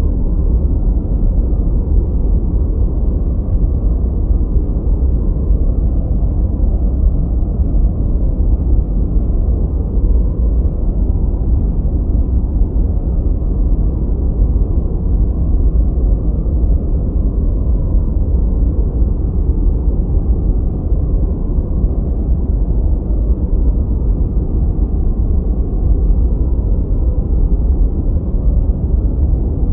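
Continuous noise played for study or sleep: a steady, even hiss weighted heavily toward the low end, deep and muffled, with no high treble, never changing.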